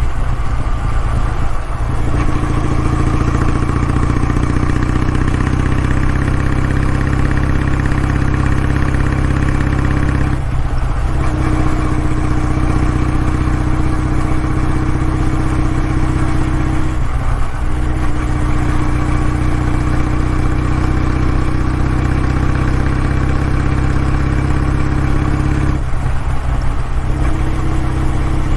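Kawasaki W650's air-cooled parallel-twin engine and exhaust running at steady revs. The note breaks briefly four times, about a second in, after about ten seconds, after about seventeen seconds, and near the end.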